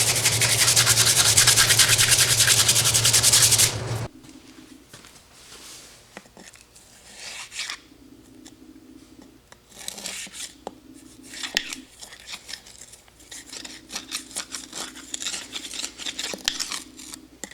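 A power sander with a coarse 36-grit disc abrading a surface: a loud grinding hiss over a steady motor hum, cutting off about four seconds in. After that come quieter, intermittent rubbing and scraping strokes.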